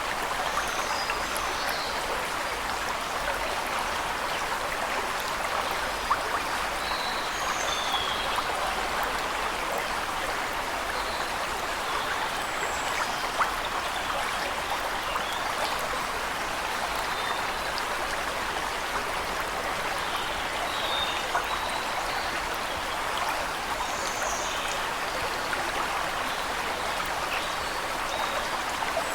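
Waterfall running steadily as an even wash of water noise, with faint, brief bird chirps scattered over it every few seconds.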